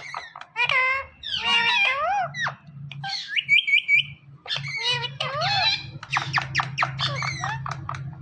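Pet green parrot chattering and squawking in short, high-pitched sliding calls with speech-like babble, including a quick run of repeated chirps about three seconds in.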